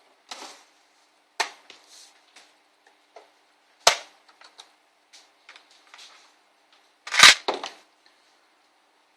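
Irregular sharp clicks and knocks of plastic laptop case parts and small tools being handled during disassembly. The loudest, a cluster with a dull thud, comes about two seconds before the end.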